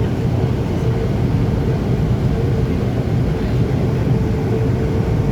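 A Scania K280UB city bus on the move, heard on board: a steady low engine and road rumble with a faint steady whine.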